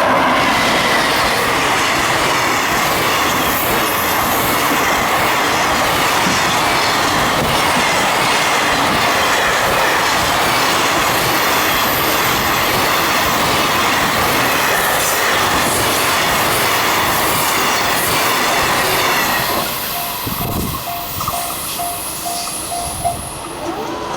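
Freight train wagons behind an EF210 electric locomotive rolling past at speed, a loud steady rumble and clatter of wheels on rail. The noise drops off about twenty seconds in as the last wagons go by.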